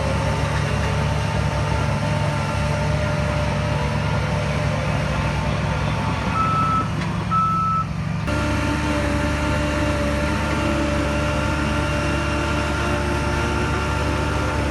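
Heavy diesel earth-moving machinery running steadily, with a reversing alarm beeping. The engine sound shifts abruptly about eight seconds in.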